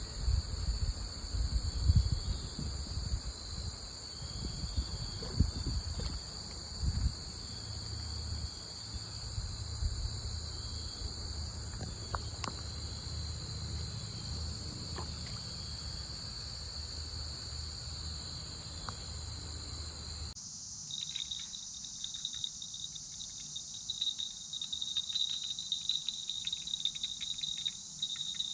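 Insects trilling steadily in several high bands, with low rumble and a few knocks in the first few seconds. About two-thirds of the way through the sound cuts abruptly to a different, fast-pulsing insect trill.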